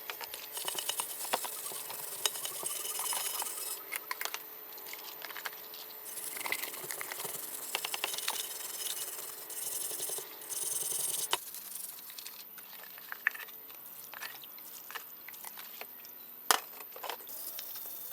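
Hand work on parts: stretches of rubbing and scraping with scattered sharp clicks and knocks, and one louder click near the end.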